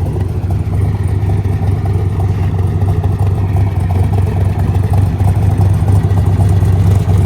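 1966 Corvette's 427 big-block V8 with tri-power carburettors idling steadily through side exhaust pipes, with a deep, even rumble.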